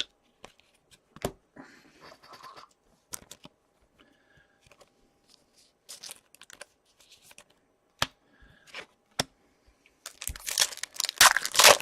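Soft scattered clicks and rustles of trading cards being handled, then near the end a loud stretch of tearing and crinkling as a foil hockey card pack wrapper is ripped open.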